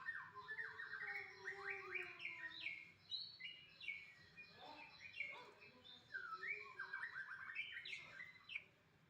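White-rumped shama (murai batu) singing a varied run of quick, sweeping whistled notes, stopping shortly before the end.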